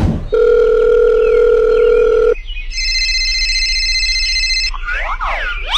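Electronic beep tones like a telephone dial tone: a steady low tone for about two seconds, then after a short break a higher, shriller steady tone for about two seconds, followed by a few quick gliding chirps near the end.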